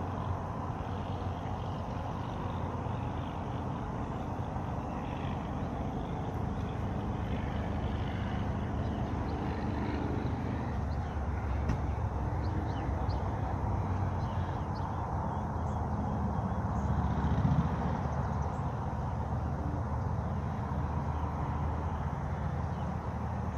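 Faint, scattered bird chirps over a steady low rumble, which swells briefly late on.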